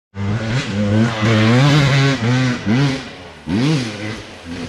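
Dirt bike engine revving under heavy throttle, its pitch wavering up and down, then several quick throttle blips that rise and fall in pitch in the second half.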